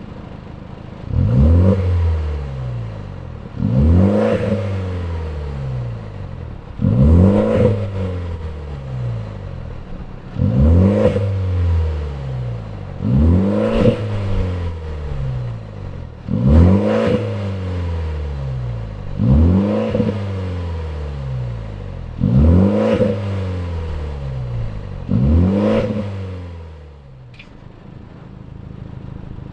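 BMW 128ti's turbocharged 2.0-litre four-cylinder through a Milltek valved exhaust, blipped from idle nine times, about every three seconds. Each rev rises sharply and falls back to a steady idle, which carries on alone near the end.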